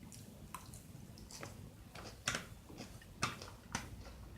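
A person chewing food, with a few sharp mouth clicks at irregular intervals, the loudest a little over two and a little over three seconds in.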